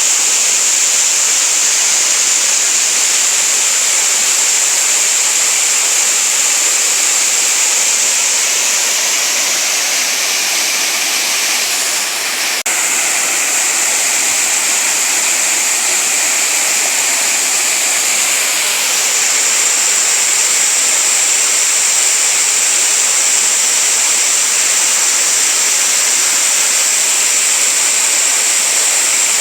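A small waterfall with water falling and rushing over rocks, making a steady hiss. It dips slightly about twelve seconds in, with a faint tick.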